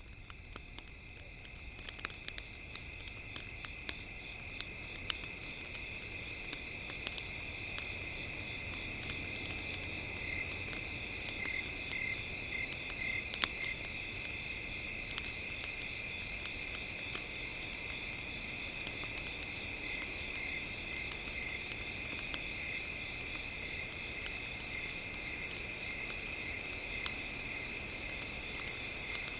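Crackling campfire with scattered sharp pops over a steady, high-pitched ringing drone with a faint pulsing edge. It fades in over the first several seconds, then holds steady.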